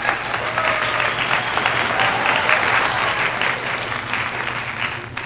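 Crowd applause, a dense steady clapping that cuts off suddenly about five seconds in.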